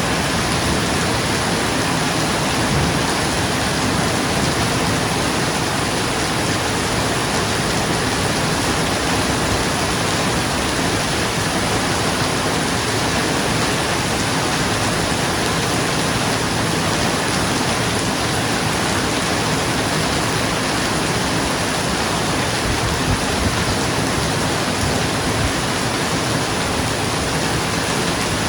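Rain falling on a roof, a steady, even hiss with no thunder or single drops standing out.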